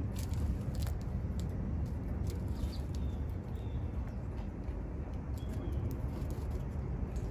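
Steady low background rumble with a few faint, short bird chirps, from small birds like the sparrow feeding at the seed feeder.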